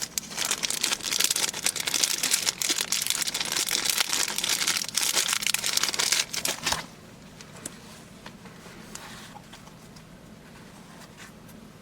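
Dense crinkling and rustling of something handled close to the microphone, stopping abruptly about seven seconds in, after which only faint room tone remains.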